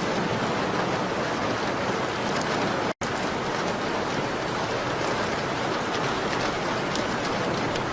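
Steady rain on a window with faint fireplace crackles now and then. The sound cuts out completely for an instant about three seconds in.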